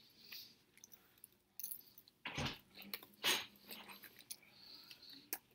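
Close-miked chewing of a toasted chicken teriyaki sub: irregular short mouth sounds of chewing, loudest about two and a half and three and a half seconds in.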